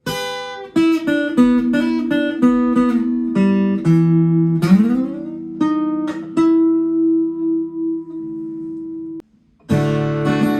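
Fender Newporter acoustic-electric guitar: single notes and chords plucked and left ringing, with one low note sliding up in pitch about halfway. After a brief gap, strummed chords begin near the end.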